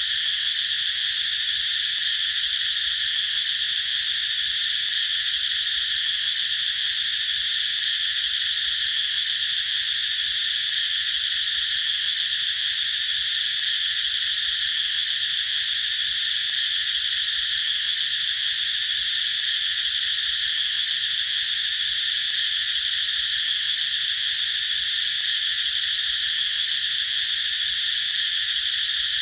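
Cicadas singing in one steady, unbroken high buzz that holds the same level throughout.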